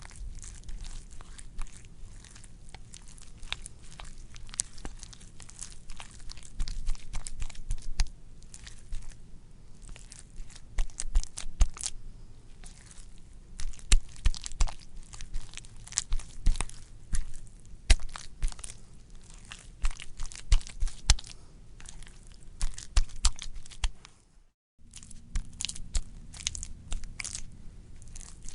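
Wet, squishy squelching: a continuous run of irregular small clicks and pops, with a short break about three-quarters of the way through before it carries on.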